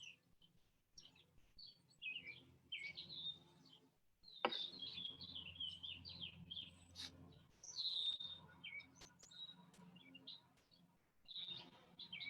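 Songbirds chirping and singing faintly in short bursts with pauses between them.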